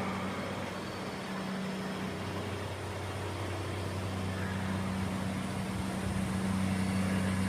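Steady low drone of diesel locomotives idling on the CSX railroad, a constant deep hum under an even engine rumble.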